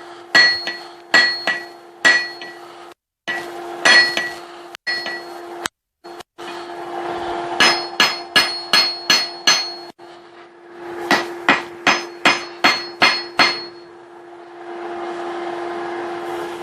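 Hand hammer striking a hot steel workpiece on an anvil in quick runs of blows, each blow ringing briefly, while the striking end of a hammer eye punch is flattened and squared. A steady hum runs underneath, and after the last run a steady rushing sound takes over.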